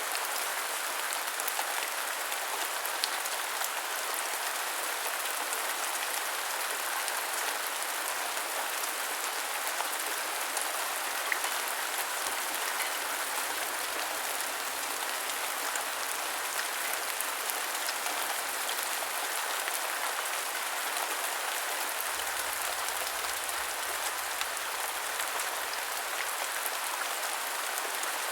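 Heavy rain falling steadily, a dense even hiss with many fine drop ticks.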